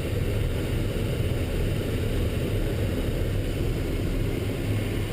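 Military truck running on the move: a steady low engine and road rumble.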